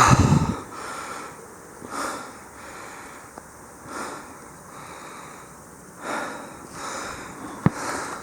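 A gust of wind buffets the microphone at the start, then a person breathes near the microphone, one breath about every two seconds, with a single sharp click near the end.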